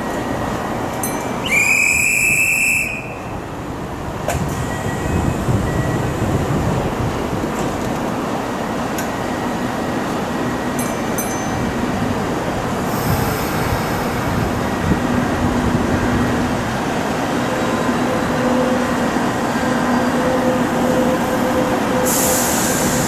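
Train noise at a station platform, with a Kintetsu 22000 series ACE express standing and running steadily. A short, loud, high electronic tone sounds about two seconds in. In the second half a train pulls in on a far track, with a steady hum building and spells of hiss.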